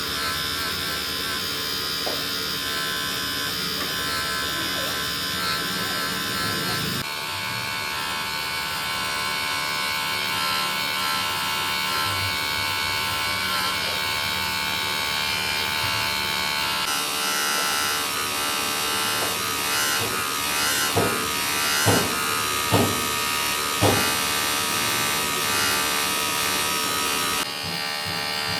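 Workshop machinery running with a steady high-pitched buzz whose pitch mix changes abruptly a few times. Four sharp knocks come about two-thirds of the way through.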